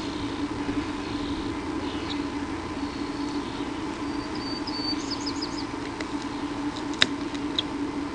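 Faint, high, short bird chirps over a steady low electrical hum, with a quick run of chirps about five seconds in and a single sharp click about seven seconds in.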